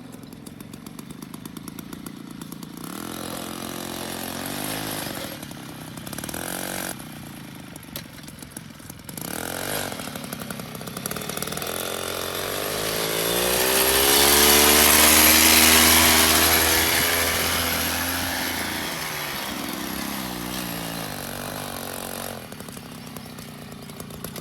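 The small engine of a homemade mini tractor running. It grows steadily louder to a peak a little past the middle, then fades again, as if the tractor drives close by.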